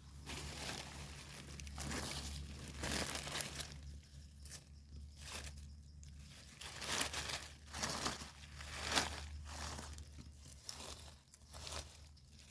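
Irregular rustling, crunching and tearing as termite mushrooms are picked by hand from the leaf litter and soil.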